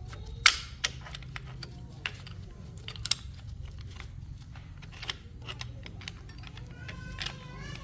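Irregular sharp clicks and taps of hand work on small hard objects, the loudest about half a second in, over a low steady hum.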